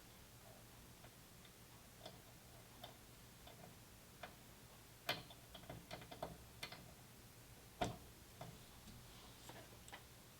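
Faint, irregular clicks and taps, the two loudest about five and eight seconds in, over a low steady hum.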